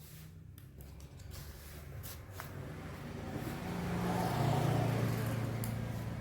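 A motor vehicle engine running, growing steadily louder over several seconds to a peak near the end, then easing slightly.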